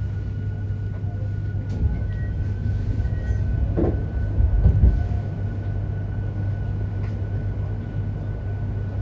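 Running sound inside a JR Hokkaido 731 series electric multiple unit car, MoHa 731-109: a steady low rumble with a thin, steady high whine over it, growing louder with a few knocks about four to five seconds in. The uploader says this car's traction motor on the Otaru-end bogie gives an abnormal roar like an old nose-suspended motor.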